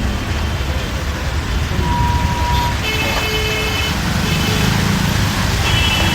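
Steady low rumble of a bus moving in traffic, heard from inside. Vehicle horns sound outside: a short single-pitch beep about two seconds in, then horn blasts about three seconds in and again near the end.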